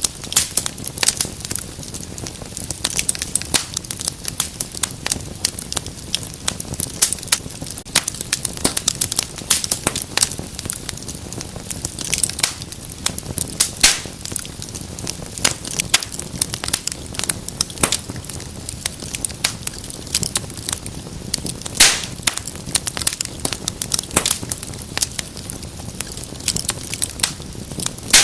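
Wood fire in a fireplace crackling steadily, with dense, irregular sharp pops and snaps over a low, steady rumble and hiss of the flames.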